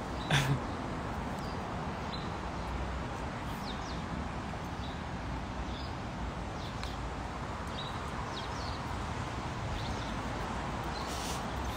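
Birds chirping in short, scattered calls over a steady outdoor background hiss, with one brief louder sound just after the start.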